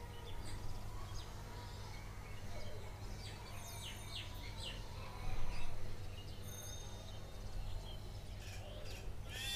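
Faint birds chirping now and then over a steady low background hum, with one brief, slightly louder noise about halfway through.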